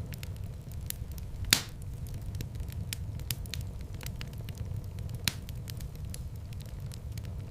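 Wood fire burning in a fireplace, crackling steadily over a low rumble. One loud pop comes about one and a half seconds in and a sharper snap a little after five seconds.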